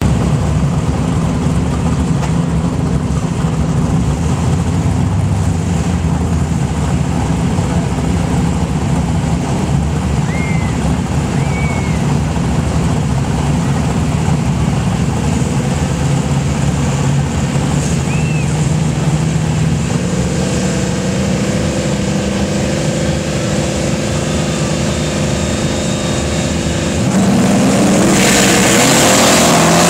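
Turbocharged drag-racing car engine running at a steady low idle, its pitch stepping up about two-thirds of the way in. Near the end it gets louder and a loud rushing noise sets in as the engine climbs in pitch, revving hard as the car pulls away.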